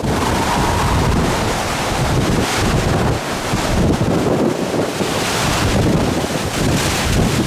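Hurricane wind gusting hard against the microphone: a loud, rushing noise that swells and eases from gust to gust.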